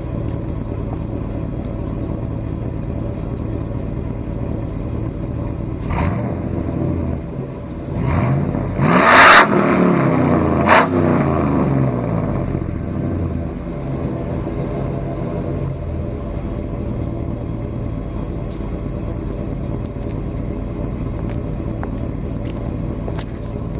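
Chevy Vortex 5.3 V8 with a small comp cam and a turbo glass pack exhaust running to a Y-pipe, heard from outside the truck: idling steadily, blipped once about six seconds in, then revved hard about eight seconds in, with a second quick rev just after, before dropping back to idle.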